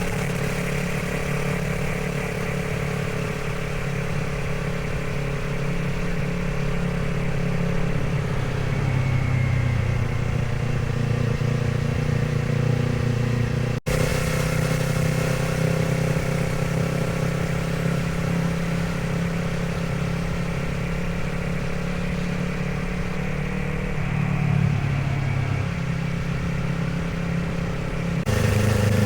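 Motorcycle engine running while riding, its note shifting in pitch several times as the throttle and gears change, with a brief break in the sound about halfway through.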